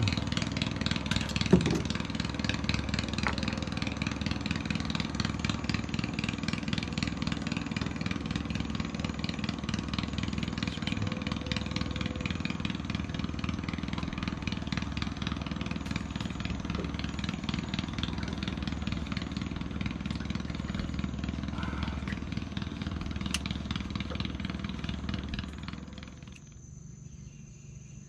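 Small boat engine running steadily, then cut off about 26 seconds in, leaving insects chirping at night.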